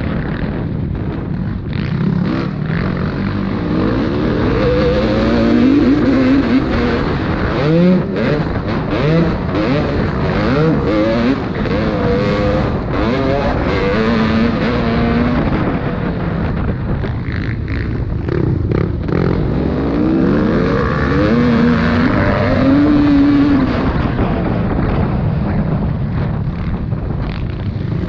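Motocross bikes racing, their engines repeatedly revving up and easing off as the riders work through the track, several engines overlapping.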